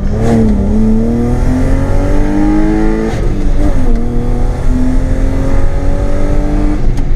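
BMW M52B28 2.8-litre straight-six with a straight-piped exhaust accelerating hard under load, its note climbing steadily from about 35 mph in second gear. About three seconds in the pitch drops suddenly as it shifts up, then climbs again more slowly, and drops once more at the very end.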